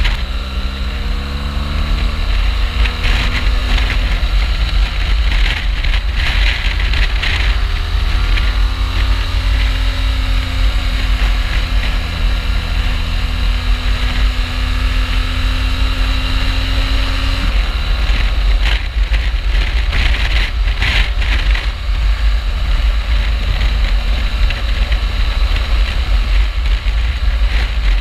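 BMW R1200GS boxer-twin engine under way, its pitch rising as it pulls up through the revs near the start and again a few seconds later, holding steady for a while, then dropping. A heavy wind rumble on the microphone runs underneath.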